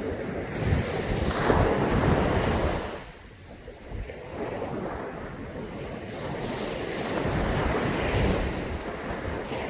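Caribbean sea waves breaking and washing up on a beach: one wave swells about a second in and falls away sharply near three seconds, then another builds through the second half.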